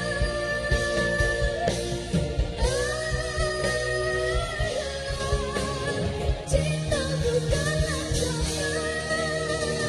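A woman singing a dangdut song over band accompaniment with a steady drum beat, holding long notes.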